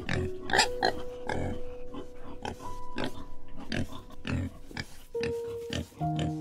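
An animal giving short, rough calls in a series, about two a second, over background piano music with held notes.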